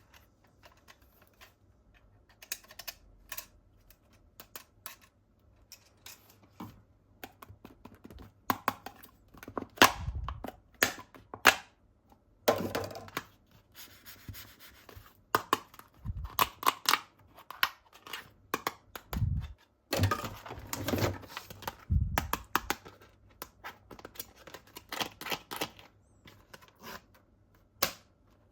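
Hands unpacking and handling plastic toy guns and their packaging: irregular clicks, taps and knocks of hard plastic, a few heavier thuds, and stretches of rustling and tearing packaging.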